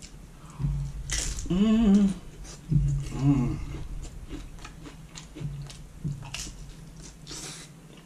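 A man chewing and biting into Doritos nachos close to the microphone, with small clicking mouth sounds throughout. There are two short hums of the voice, about a second and a half in and again at three seconds.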